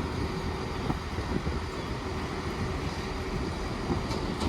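Class 166 Turbo diesel multiple unit at the platform, its underfloor diesel engines running with a steady low rumble.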